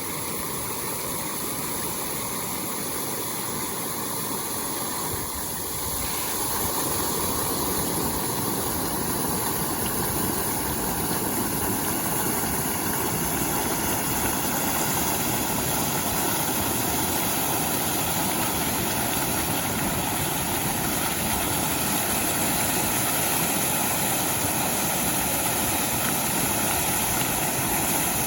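Steady rushing water, an even roar like a stream or waterfall, becoming a little louder about six seconds in.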